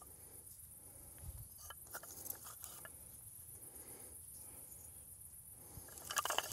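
Crickets chirping steadily in the background, with scattered faint clicks and rustles and a louder patch of rustling near the end.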